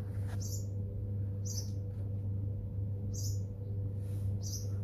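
Worn ball bearing in a Samsung split AC indoor fan motor squeaking in short, high chirps about every second or so as the shaft turns, over a steady low hum. The front bearing is the noisy one; both of the motor's bearings are worn out.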